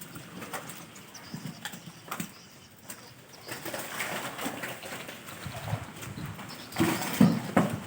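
Crocodiles feeding: scattered sharp knocks and snaps, with a louder flurry of heavy thuds and snaps about seven seconds in.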